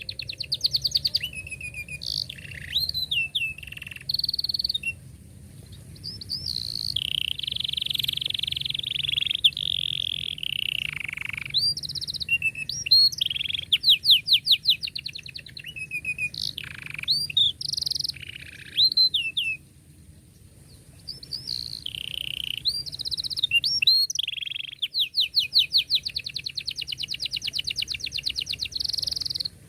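Domestic canary singing a long song: rapid trills and rolls alternating with sweeping chirps, with a short pause about two-thirds of the way through.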